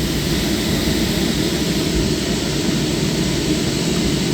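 Steady jet engine and airflow noise inside the cabin of a jet airliner, an even, loud rumble and hiss.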